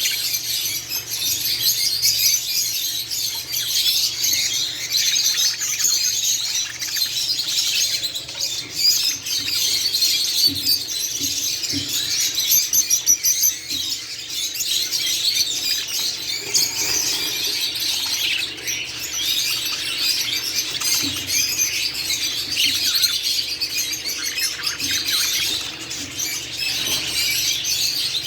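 Budgerigars chattering and chirping continuously, a dense stream of quick, high warbling notes.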